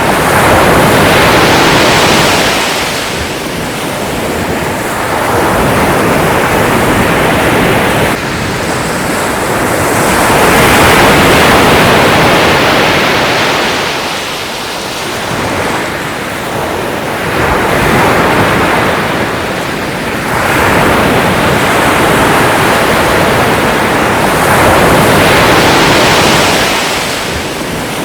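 Ocean surf: waves breaking and washing in, the hiss of water swelling and fading about every four to five seconds.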